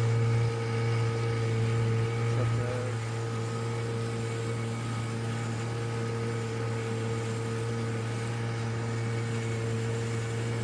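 Boat engine running at a steady speed, a constant droning hum that does not change.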